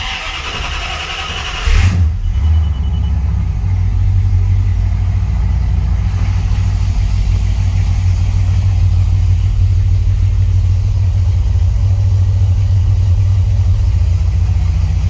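Cold start of a 1968 Dodge Charger's 440 big-block V8 with FiTech 30005 throttle-body fuel injection: the starter cranks for about two seconds, the engine catches and then settles into a steady cold idle.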